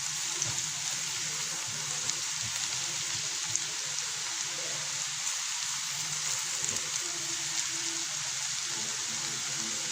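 Chopped onion, ginger and garlic sizzling steadily in hot oil in a pan, a continuous hiss with small scattered crackles.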